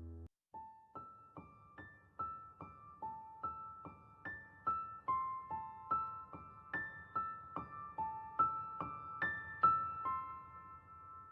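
Background piano music: a gentle melody of single high notes, about two or three a second, starting after a brief gap.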